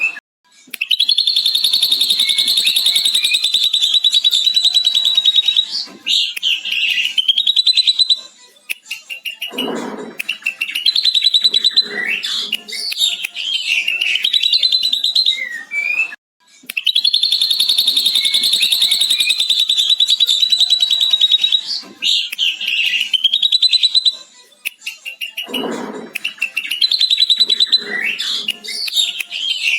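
Ashy drongo singing, with a long, rapid chattering run imitating a lovebird's ngekek, followed by varied whistles and harsh calls. The same passage repeats about halfway through, a looped recording.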